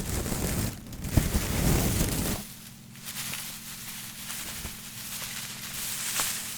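Fast scratching and brushing on a hard object, heavy and rough for the first two seconds or so, then lighter and thinner, with a sharp tap about six seconds in.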